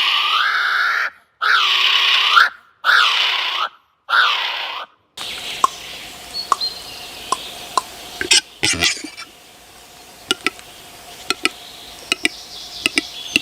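Loud bird calls, four in a row about every second and a half, each a bending, harsh cry. After about five seconds comes a quieter stretch with scattered sharp clicks and ticks.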